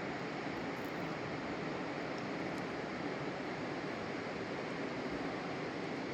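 Steady, even outdoor rushing noise with no distinct events or tones.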